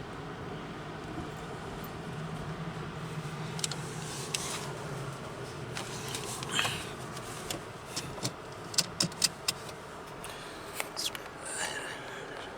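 Car engine running with a steady low hum, then a string of sharp clicks and light rattles in the second half.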